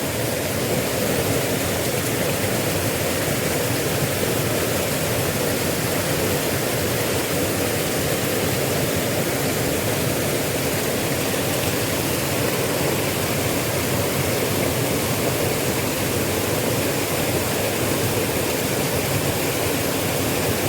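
Small river's water rushing steadily, an even, unbroken hiss.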